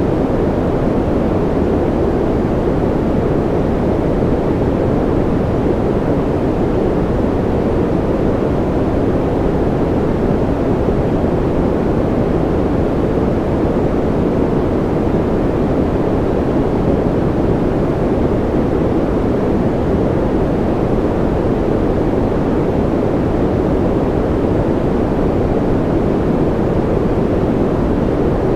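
Continuous white noise for sleep: a steady, even rushing that does not change. Its weight sits in the low and middle range, with little hiss at the top.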